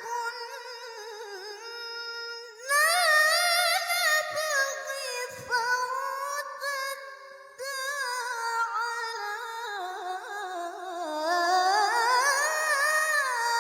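A woman's voice reciting the Quran in the melodic tilawah style, drawing out long ornamented phrases with the pitch wavering and gliding. A new, louder phrase starts high about three seconds in, and there is a brief pause for breath near the middle.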